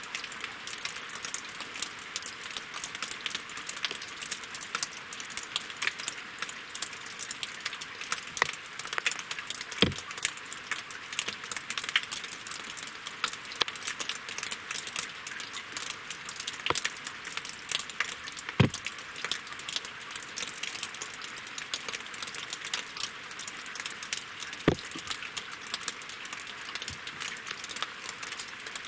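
Steady winter rain falling on lake water and logs: a dense patter of small drops, with a few louder, heavier drips striking now and then.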